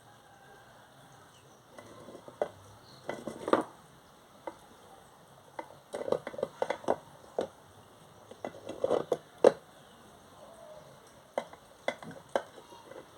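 Parts of an electric gate opener's motor being handled and fitted back into the greased housing: irregular clusters of clicks, knocks and rubbing of plastic and metal parts.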